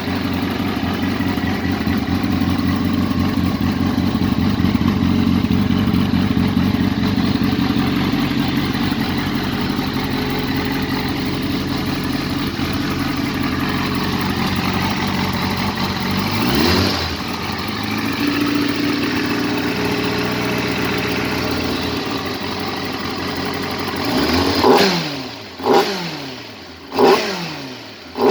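Yamaha R6 race bike's inline-four engine, with titanium exhaust, idling steadily. It is given one quick blip of the throttle a little past halfway, then near the end several sharp revs about a second apart, each dropping back quickly.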